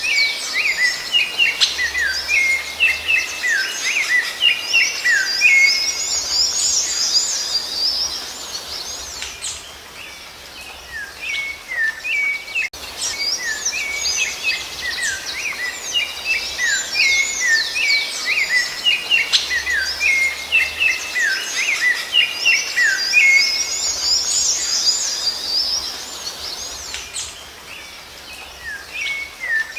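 Rufous-bellied thrush (sabiá-laranjeira) birdsong: dense runs of quick chirping and gliding high notes, easing off briefly twice. The same passage comes round again about every 18 seconds, as in a looped recording.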